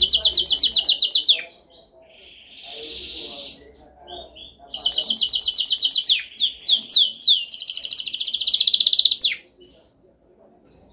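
Domestic canary singing: fast rolled trills, a buzzy phrase, then a long run of trills and downward-slurring notes, falling quiet near the end.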